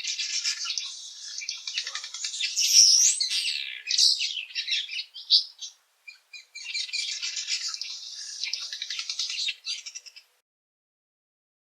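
Village weaver calling: a dense, fast, buzzy chatter of mixed notes in two long bouts, with a short break about five and a half seconds in. It stops about ten seconds in.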